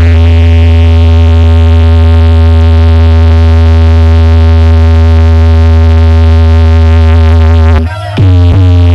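Loud sound system playing a DJ track: one long held synthesizer note over very heavy bass. Near the end it drops out for a moment with a falling pitch sweep, then comes back.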